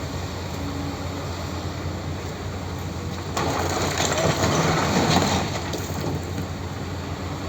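Tractor engine running steadily, with a louder, rough crunching noise that swells about three seconds in and lasts some two seconds.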